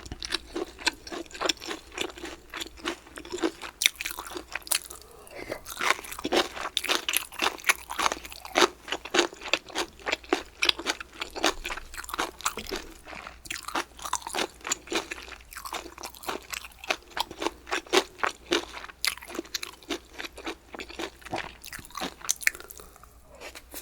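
Close-miked chewing of crunchy bamboo shoots: rapid crisp crunches, several a second, easing briefly near the end. A faint low microphone hum runs underneath.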